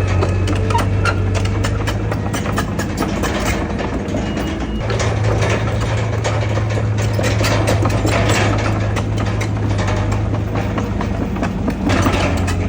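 Heavy diesel earthmoving machinery running steadily, with frequent clanks and rattles over the low engine note. The engine note weakens briefly about four seconds in.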